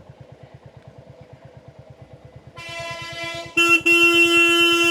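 Royal Enfield Hunter 350's single-cylinder engine running with an even low beat. About two and a half seconds in a vehicle horn starts faintly, then about a second later sounds loud and long, with a brief break, still going at the end.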